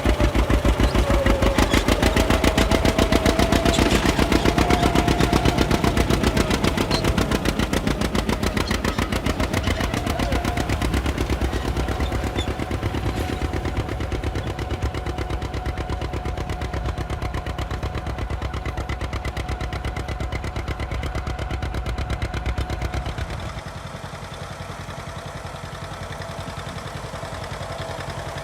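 John Deere two-cylinder tractor engine running, its exhaust popping in a rapid, even rhythm of sharp beats. It gets quieter near the end.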